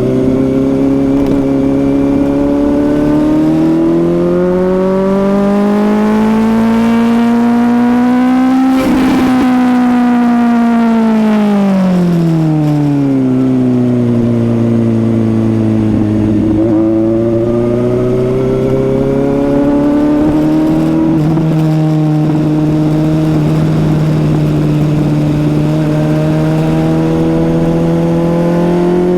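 Suzuki GSX-S750 inline-four engine under way: the revs climb steadily for about nine seconds, fall away over the next few as the throttle closes, hold low and steady, step up once a little past twenty seconds, then start climbing again near the end.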